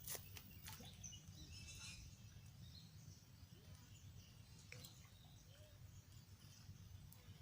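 Near silence: quiet outdoor ambience with a steady low rumble and faint bird chirps, and a sharp click at the very start.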